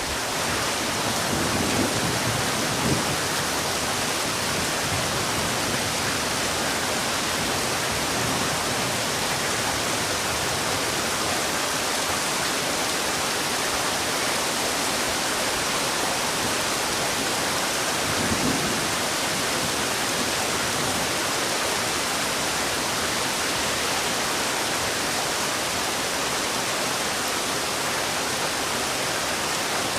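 Heavy rain falling, a steady, dense hiss with no break, with brief low swells about two seconds in and again past the middle.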